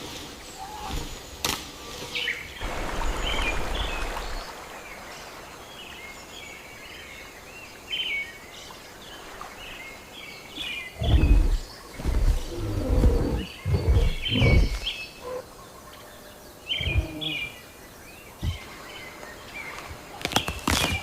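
Rainforest birds chirping and calling in short high phrases throughout. A few seconds in there is a stretch of rustling noise, and about halfway through comes a cluster of loud low thumps or rumbles, the loudest sounds here.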